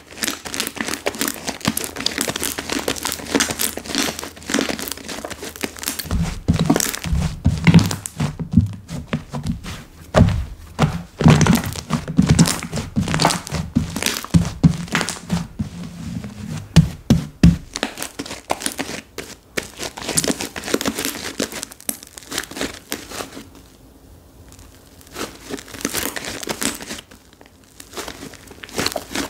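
Slime being handled: pressed, stretched and folded by hand, with dense crackling and clicking and soft low thuds through the middle.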